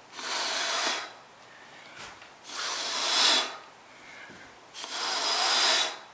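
Three long puffs of breath blown out by mouth to push wet acrylic pour paint across a tile, each about a second long with quiet gaps between.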